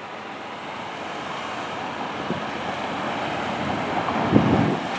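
Road traffic noise at a city intersection, a steady rush that slowly grows louder, with a vehicle passing close by about four seconds in.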